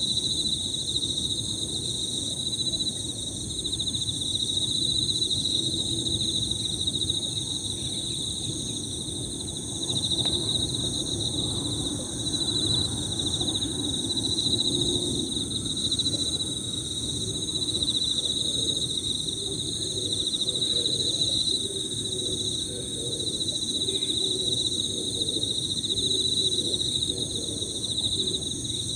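Emma field crickets singing, many overlapping high trills that merge into one continuous ringing, with a lower, uneven layer of sound underneath.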